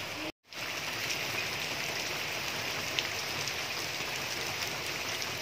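Rain falling steadily, an even hiss of rain on the ground and trees, with a brief dropout about half a second in.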